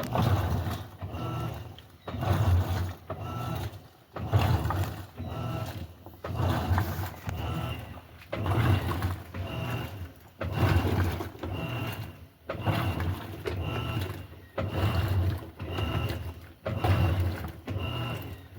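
Electrolux LTD15 top-loading washing machine agitating: its motor drives the agitator back and forth in regular strokes about once a second, each stroke a low hum with a short high tone at its peak.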